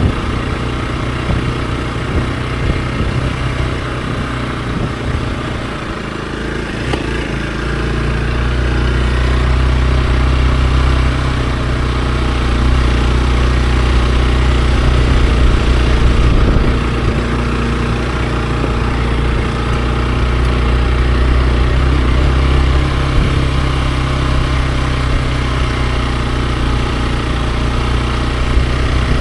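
Hero XPulse 200 4V's single-cylinder four-valve engine running steadily under way; its note rises and grows louder about a quarter of the way in, then holds steady.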